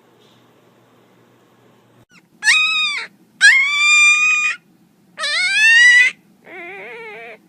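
A pet animal giving four drawn-out, high-pitched cries after a couple of quiet seconds. The last cry is lower and quieter.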